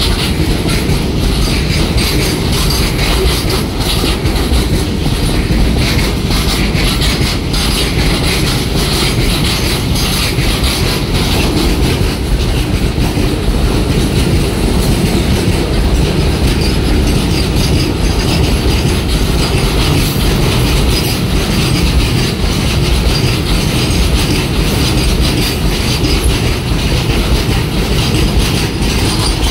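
A freight train of BFNS flat wagons loaded with steel coils passing at close range. The wheels give a loud, steady rolling rumble with rapid, repeated clicking over the rail joints.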